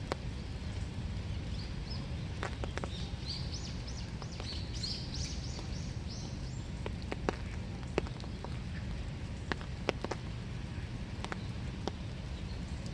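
Winter rain falling, with scattered single drips tapping close by. A bird gives a quick run of short, high chirps during the first half.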